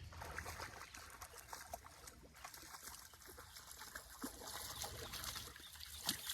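Water splashing and trickling with scattered crackles as a hooked largemouth bass thrashes at the surface while it is reeled in, with one sharp click near the end.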